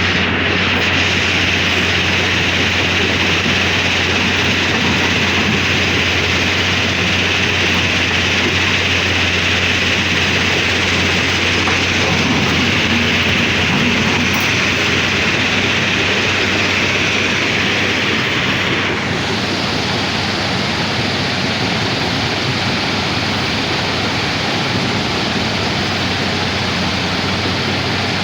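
Heavy earth-moving machinery's diesel engine running steadily under a constant hiss, with a low hum. The character of the noise shifts abruptly about two-thirds of the way in.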